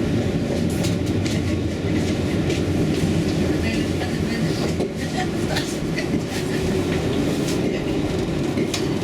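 Luas tram running along its tracks, heard from inside the car: a steady low rumble with many short clicks and rattles scattered over it.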